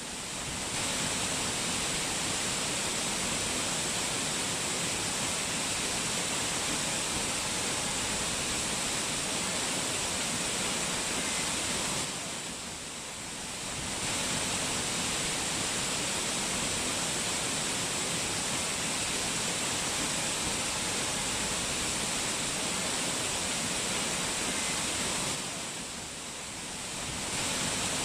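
Rushing mountain water, a waterfall or fast stream, making a steady hiss. The sound dips briefly in level about halfway through and again near the end.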